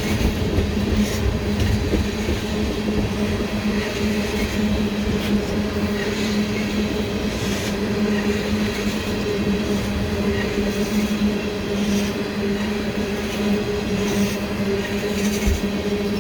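Norfolk Southern freight train of tank cars rolling past at reduced speed. There is a steady rumble and hum, with occasional clicks of wheels over the rail.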